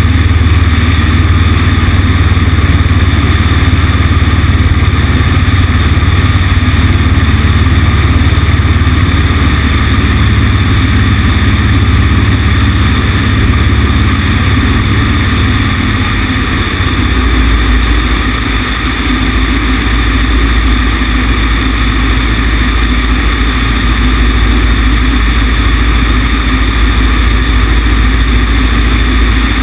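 Cessna 150's four-cylinder Continental O-200 engine and propeller droning steadily in flight, heard from a camera on the wing with the rush of air over it. The deep part of the drone shifts about seventeen seconds in.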